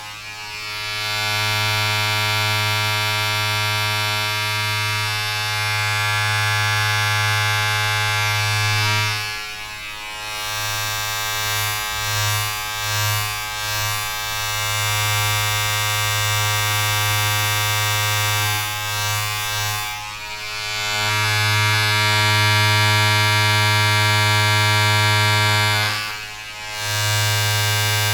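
A steady electric buzz, as from a mains-powered vibrating appliance such as a shaver or clipper, with a deep hum and a dense stack of overtones. It dips briefly a few times, about ten seconds in and again near twenty and twenty-six seconds, and wavers unevenly for a few seconds after the first dip.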